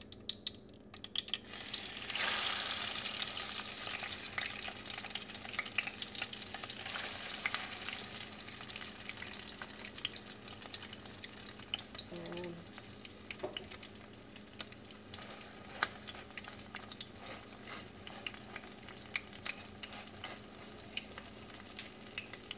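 Egg-dipped eggplant (tortang talong) frying in hot cooking oil in a pan. The sizzle starts suddenly about a second and a half in as it goes into the oil, is loudest at first, then settles to a steady crackling fry.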